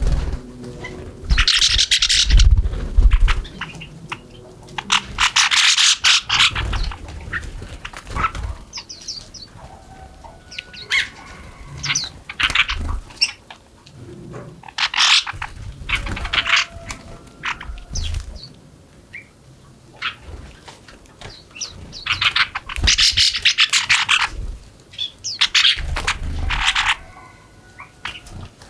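Small birds chirping in repeated short, busy bursts, with fluttering and low thumps close to the microphone, and faint thin calls in between.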